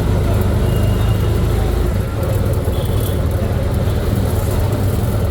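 Steady low rumble of a moving road vehicle: engine and road noise while travelling.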